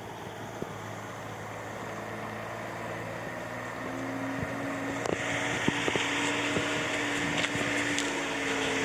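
An engine or motor running steadily with a low hum. About four seconds in a higher steady tone and a hiss join it, and a few sharp knocks sound over it.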